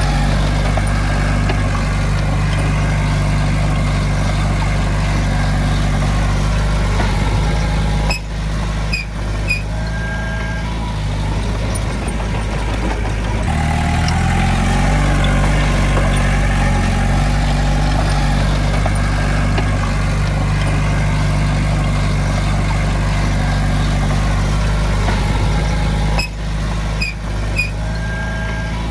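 Heavy diesel engine of earth-moving equipment running steadily, changing pitch as it picks up revs about halfway through. Two brief beeps sound, about ten seconds in and again near the end.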